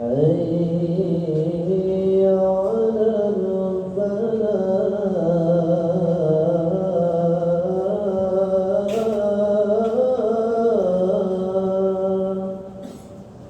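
A male muezzin chanting the adhan, the Islamic call to prayer, in a melodious voice: one long melismatic phrase held for about twelve seconds, its pitch stepping up and down in ornaments, then breaking off for a short pause near the end.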